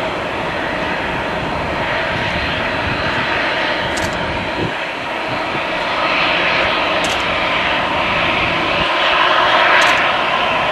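Jet engines of a Boeing 737-800 (CFM56-7B turbofans) running with a steady noise that grows louder about six seconds in and is loudest near the end.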